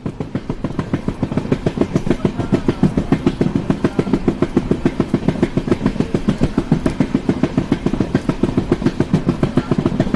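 An engine idling with a steady, rapid thumping, about seven beats a second.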